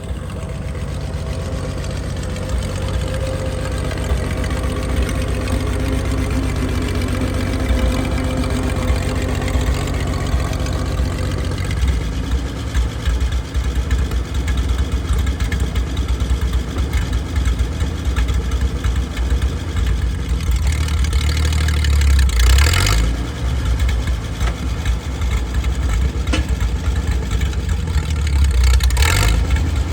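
Vintage Wards tractor engine idling steadily. It picks up briefly with louder bursts twice, about two-thirds of the way in and again near the end.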